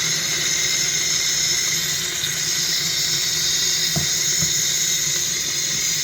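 Coffee machine running with a steady, loud hissing rush, with a couple of faint low knocks about two-thirds of the way through.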